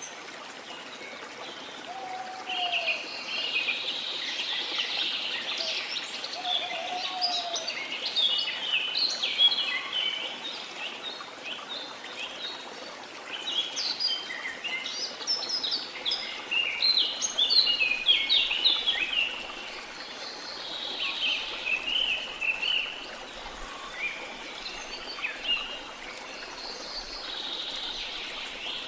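Many birds chirping and twittering in dense, rapid flurries that come and go, over the steady rush of falling water. A lower, short note sounds a few times in the first seven seconds or so.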